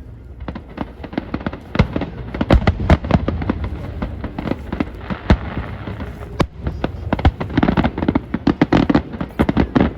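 Fireworks bursting in quick succession: many sharp bangs and crackles, packed densest near the end.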